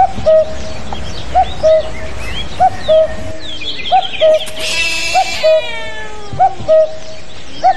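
Birds chirping, with a short two-note call, a quick rising note then a longer level one, repeating steadily about every second and a quarter. About five seconds in comes a louder cry that falls in pitch.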